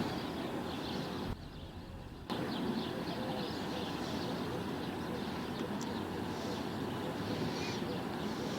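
Jet airliner passing overhead, heard as a steady distant engine noise, with a few faint bird chirps near the end.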